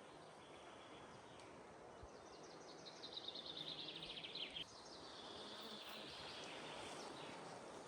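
A songbird sings a fast run of notes falling in pitch about two seconds in, then a second, lower phrase ending in a short rising note, over faint, steady forest background hiss.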